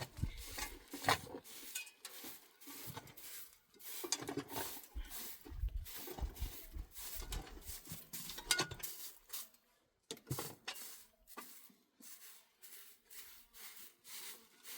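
Irregular clatter of small knocks, clicks and scraping, as of objects being handled, with short pauses between.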